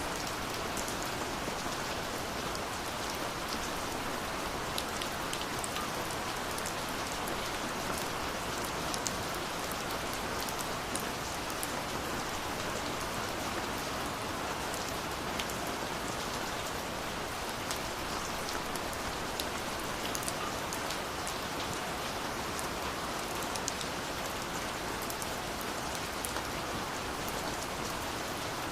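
Steady rain falling, a constant hiss with many scattered drops ticking on a surface.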